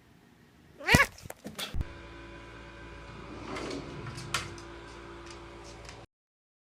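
A brief animal cry about a second in, pitched with a rise and fall, followed by a few sharp clicks. Then a steady low hum with scattered taps, until the sound cuts off suddenly near the end.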